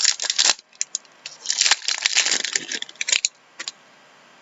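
Trading cards and their packaging being handled at close range: crinkling, rustling and light clicks in two spells, a short one at the start and a longer one from about a second and a half to three seconds in.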